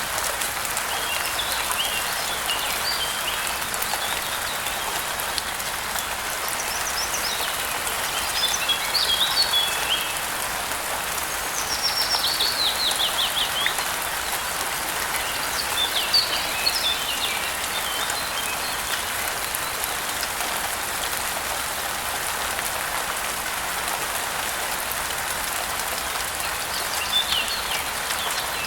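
Steady rain falling, with birds chirping in short bursts now and then, including a quick descending trill about twelve seconds in.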